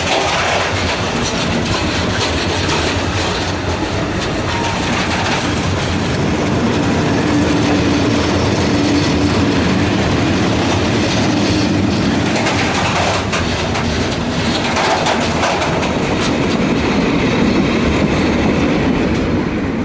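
Ore train wagons rolling past: a steady rumble of wheels on the rails with clickety-clack over the joints and a thin high wheel squeal that comes and goes.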